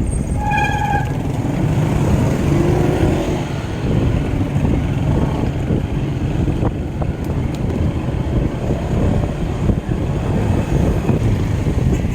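Wind buffeting the microphone and road rumble while riding a bicycle, steady throughout. A brief pitched beep sounds about half a second in.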